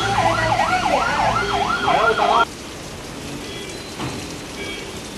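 An emergency-vehicle siren wails up and down about three times a second. It cuts off suddenly about two and a half seconds in, leaving the steady hiss of heavy rain.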